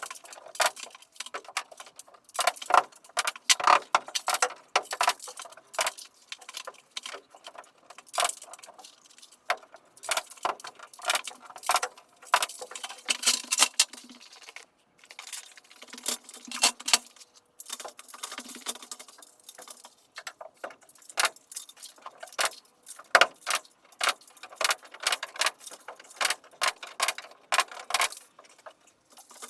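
Dense, irregular clicking, clinking and knocking of carpentry work, with no steady machine sound.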